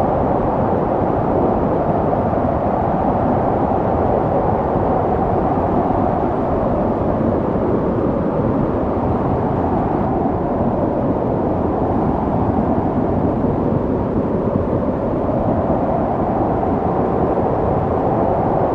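Snowstorm wind blowing steadily: a deep, dense rushing with a faint howl that wavers slowly up and down in pitch.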